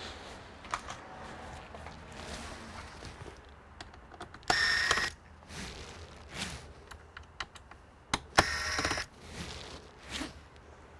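Small plastic and metal clicks and taps of computer parts being handled, with two louder rasping scrapes of about half a second each, one near the middle and one about eight seconds in.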